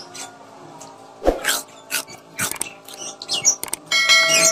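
Crisp raw fruit being bitten and chewed close to the microphone: several sharp crunches. Near the end a short subscribe-button sound effect with steady ringing tones comes in.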